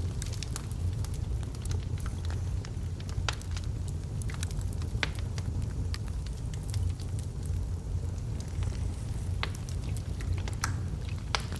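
Wood logs burning in a fireplace: irregular sharp crackles and pops from the burning wood, a few a second, over a steady low rumble.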